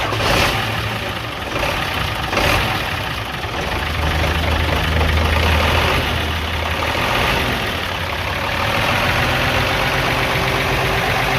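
Hino J08C inline-six diesel truck engine catching right at the start and then idling steadily. Its alternator has just been refitted with the loose mounting nut tightened; the play in that nut had let the alternator tilt under belt pull and tick against the engine.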